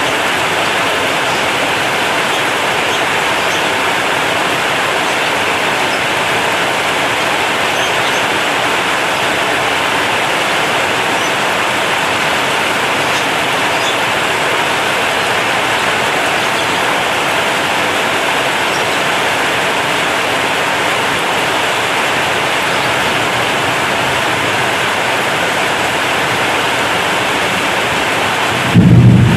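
Heavy rain falling steadily on a corrugated zinc roof, an even hiss. Just before the end, a sudden loud, deep rumble of thunder breaks in.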